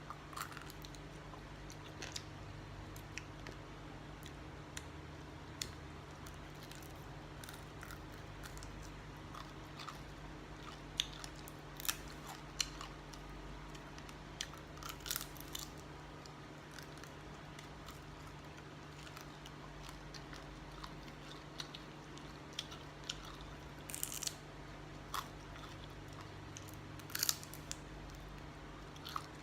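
Someone eating: scattered small crunches and clicks of chewing and utensils, over a steady low hum.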